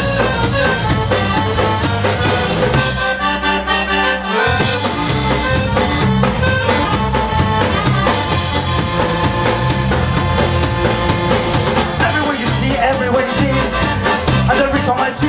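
A band playing an instrumental passage of an upbeat rock-style song, with drum kit, bass and guitar keeping a steady beat. The bass and drums drop out for about a second and a half, about three seconds in, then come back in.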